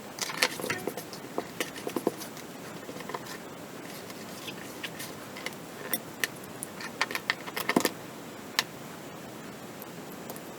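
Irregular sharp clicks, taps and light rattles of small hard parts being handled, coming in clusters with a busier run about two thirds of the way in, over a steady hiss.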